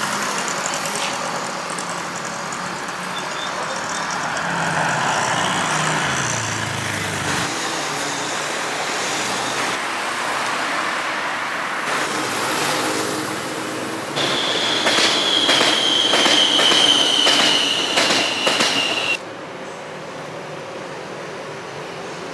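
A train running, with a high, slowly falling squeal and clicks over about five seconds in the second half, which cut off abruptly.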